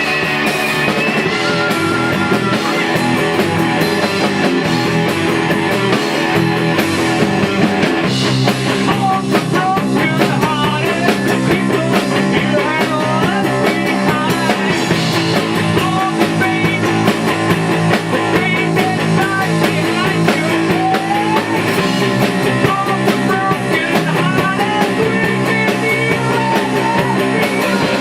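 Rock band playing a song at rehearsal: guitars and drum kit, steady and loud throughout.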